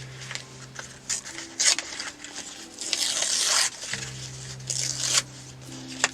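Paper and craft supplies being handled in several short scratchy bursts, the longest just under a second, with a few clicks, over soft background music with held notes.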